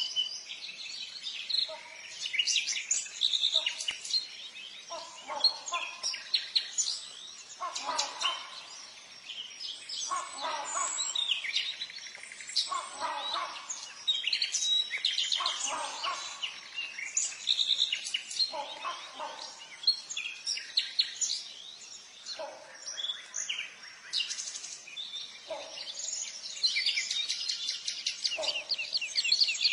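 Birds calling: a dense, continuous chatter of high chirps and twitters, with lower, harsher calls that come every two to three seconds.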